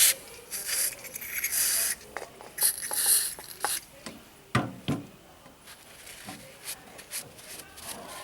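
Hand scraping and rubbing on the rusty metal parts of a dismantled Bosch starter motor, several scrapes in the first half, then a few sharp knocks and taps, quieter toward the end.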